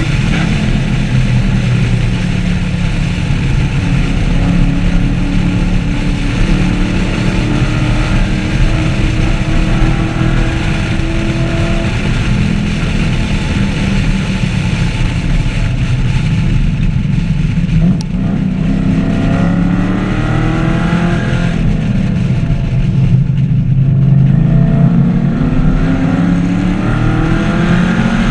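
2014 Camaro SS 1LE's 6.2-litre V8 at high revs under load, with heavy wind and road noise. The engine note falls as the car slows about two-thirds of the way in, with a brief dip in level, then climbs steadily as it accelerates hard near the end.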